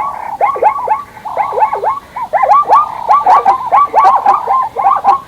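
A rapid chorus of short animal or bird calls, several overlapping, each a quick dipping chirp, many a second.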